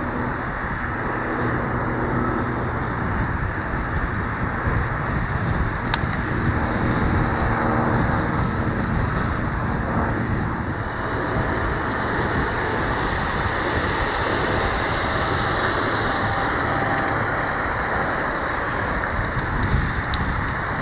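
Jet aircraft engines running with a steady deep rumble, mixed with wind noise on the microphone. About halfway through, a higher whine rises and grows stronger for a few seconds.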